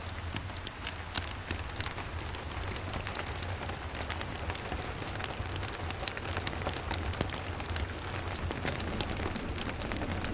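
Steady rain together with crackling from a wood fire: many sharp ticks and pops over an even hiss, with a steady low rumble underneath.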